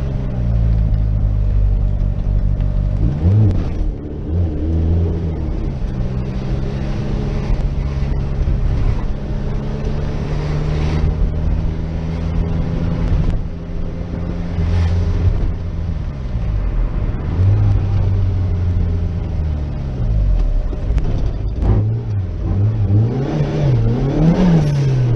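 Turbocharged Rover 1.8 K-series engine of an MG TF running under way, its revs rising and falling several times with a long steady stretch in the middle.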